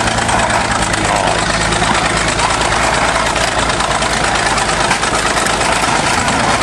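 Heavy tractor engine running steadily at idle, loud and close.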